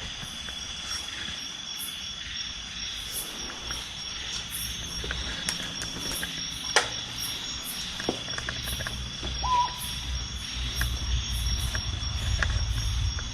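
Crickets and other insects calling in a steady chorus: a continuous high trill with sharper, very high chirps repeating over and over. A single sharp click comes about seven seconds in, and a low rumble builds near the end.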